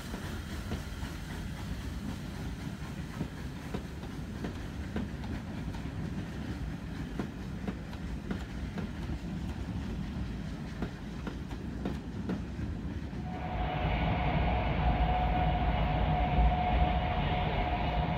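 Railway coaches rolling past at low speed, the wheels clicking irregularly over the rail joints. About thirteen seconds in it cuts to the louder rumble of a moving train heard from inside, with a steady whine.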